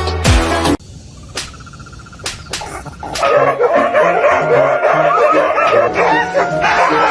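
A dog whining and yipping in short, wavering calls. A music track with deep bass notes cuts off about a second in, and the dog's calls come in around three seconds in.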